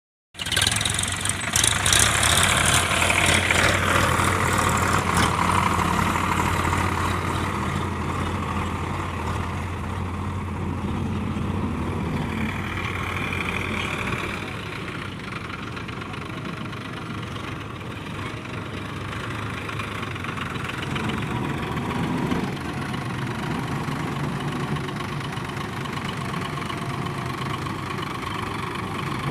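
Diesel engines of a JCB 3DX backhoe loader and tractors running steadily at a mud-loading job. It is louder for the first few seconds, with a brief higher whine about twelve seconds in.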